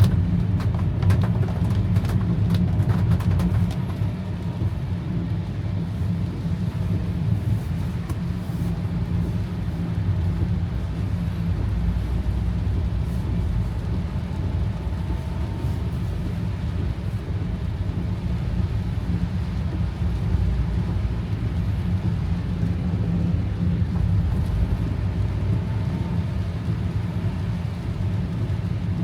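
Car driving, heard from inside: a steady low rumble of engine and road noise with a faint even hiss over it, and a few sharp ticks in the first few seconds.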